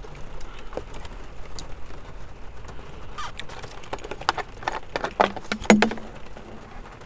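Close-miked eating sounds: chewing with a run of wet lip smacks and small clicks about three to six seconds in, over a steady low hiss.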